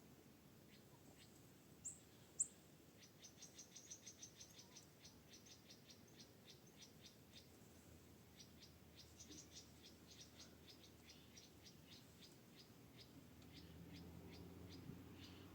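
Near silence with faint, quick, high chirping from a small animal. Two sharper chirps come about two seconds in, then a fast run of chirps that slows to a few a second.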